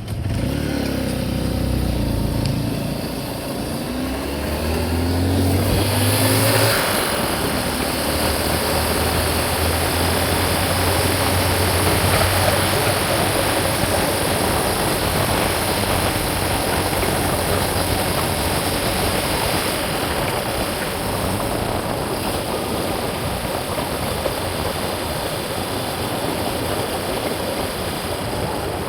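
Motor vehicle engine picking up speed over the first several seconds, its pitch climbing in steps as it goes through the gears, then running steadily at cruising speed with road and wind noise.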